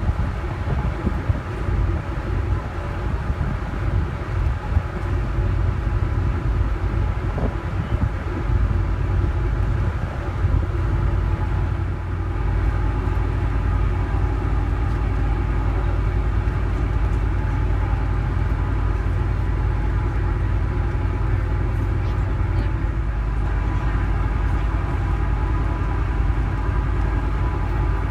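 The Osprey 2000 car ferry's engines running under way: a steady low drone with a constant hum over it, buffeting unevenly for the first ten seconds or so before settling.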